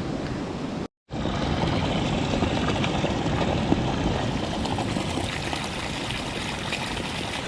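Mountain stream water running steadily, a continuous rushing sound that drops out abruptly for a moment about a second in.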